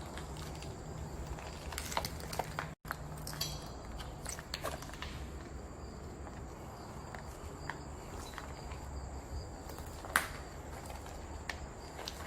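Footsteps crunching faintly on debris, scattered clicks over a low steady hum, with the sound cutting out for an instant about three seconds in.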